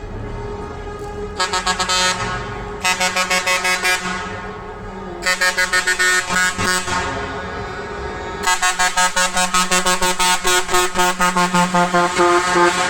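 Truck air horns blown in four long stretches. Each stretch is chopped into rapid pulses of about seven a second, and the last and longest runs for several seconds near the end.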